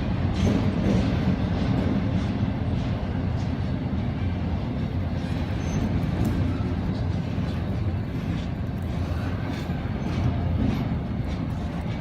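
Intermodal freight train rolling past: a steady low rumble of the cars on the rails, with faint clicks from wheels over the rail joints here and there.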